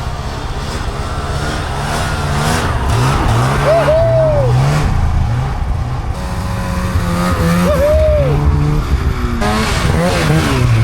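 Snowmobile engine revving up and down over and over while riding through deep snow, with two brief high whines that rise and fall, about four and eight seconds in.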